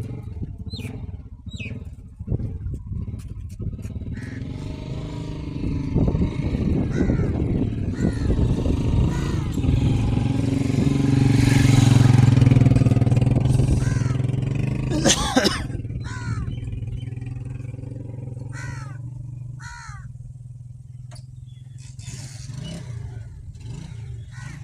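Massey Ferguson 260 tractor's three-cylinder diesel engine running steadily. It grows louder toward the middle, peaking about halfway through, and then fades again.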